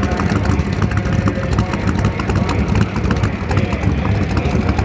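Shelby 427 Cobra's aluminum-head 427 side-oiler V8, with dual four-barrel carburetors, idling at a steady, even speed.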